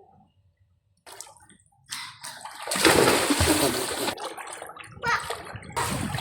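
Water splashing, as someone plays in water: a big, loud splash about three seconds in, with smaller splashes before and near the end.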